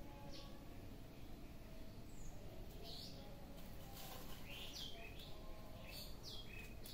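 Small birds chirping: a string of short, high, falling chirps, busiest from about three seconds in, with a few faint clicks.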